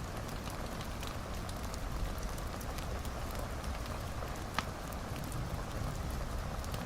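Wood fire crackling in a fireplace: a steady low rustle of burning with scattered small crackles and one louder pop about two-thirds of the way through.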